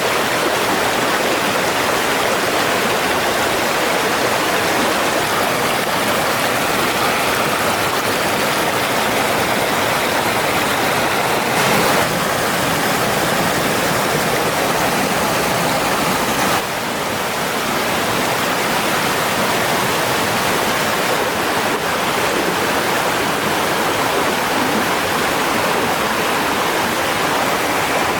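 Steady rushing of flowing stream water, with a slight shift in level about twelve seconds in and a small drop about seventeen seconds in.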